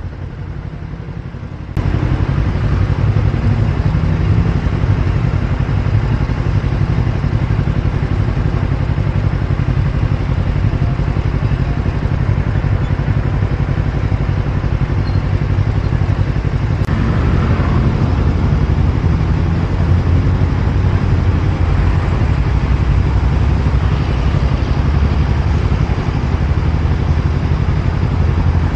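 Motorbike engine running while riding, mixed with steady wind and road noise. It starts abruptly about two seconds in, after a short stretch of music.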